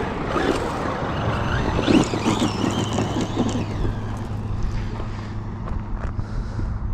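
Traxxas Maxx V2 RC monster truck being driven: its brushless motor whines up and down in pitch over the rough rush of tyres and drivetrain, loudest about two seconds in.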